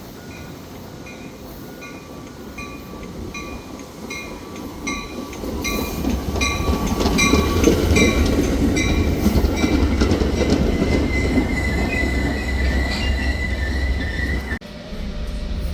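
A train running along the tracks. Its rumble builds from about five seconds in, and wheels squeal near the end. A quick, regular dinging repeats through the first half, and the sound cuts off abruptly near the end.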